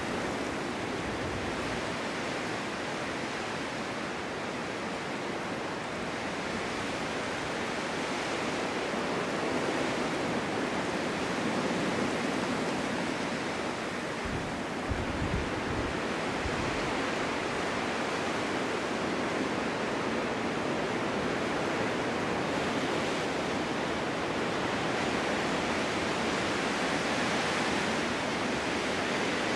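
Snowstorm wind blowing steadily, a dense rushing noise that swells and eases slowly, with a low gust about halfway through.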